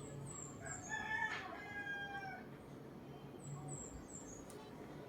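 A rooster crowing once, faintly, in one call of about two seconds that sags at the end. Short high chirps come in two little clusters, one near the start and one past the middle.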